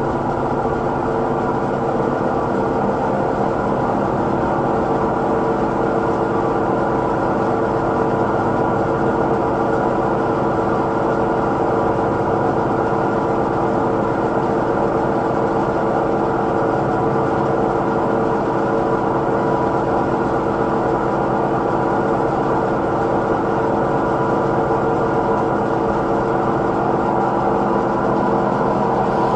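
Samsung washing machine in its spin cycle, running with a loud, steady droning rumble made of several constant tones. It is the recurring spin-cycle noise fault that keeps coming back after repairs.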